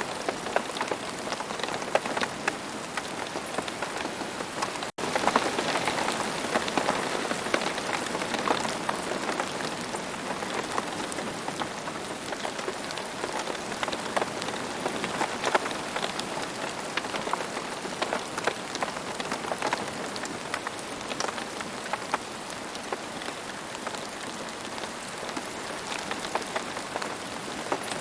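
Steady rain falling, a dense even hiss with many individual drops ticking distinctly. The sound cuts out for a split second about five seconds in, then carries on.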